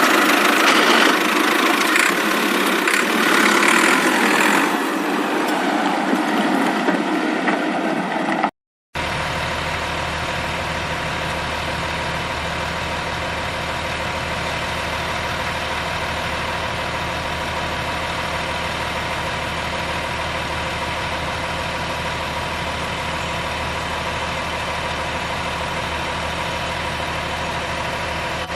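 Vehicle engine sound: a louder, rougher stretch for the first eight seconds or so, a brief cut to silence, then a steady, even engine idle.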